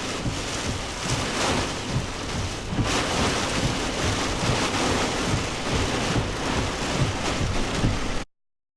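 Heavy wind-driven rain beating on a truck in a severe straight-line wind storm, with irregular gusts buffeting the microphone. It cuts off abruptly about eight seconds in.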